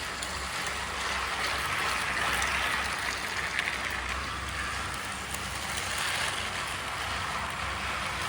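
Battery-powered motorized toy train running on plastic track: a steady whir from its small motor and gears with a light rattle of the wheels.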